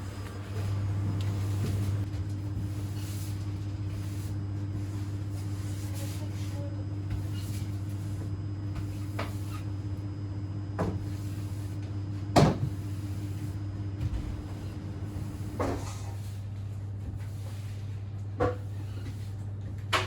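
Steady low electrical hum with a fainter steady tone above it, broken by five separate sharp knocks or clunks, the loudest about twelve seconds in.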